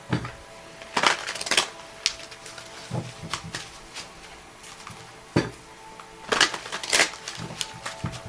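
Tarot cards being shuffled and handled, in a few short bursts of quick flicking and slapping of card stock.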